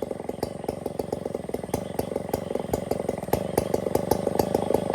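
Stihl 070 chainsaw's two-stroke engine running slowly at idle with an even putter, growing louder about three seconds in.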